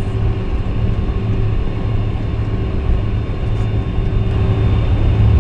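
KC-10 Extender's three GE CF6 turbofan engines running while the tanker taxis: a steady low rumble with a few faint steady tones above it.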